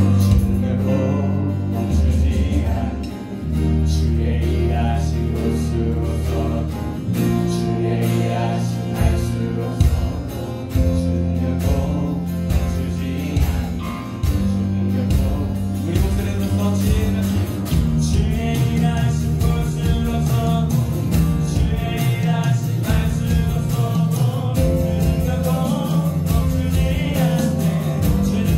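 Live worship band playing a Korean praise song: singing over acoustic guitar, keyboard, bass guitar and electronic drums, with a steady beat.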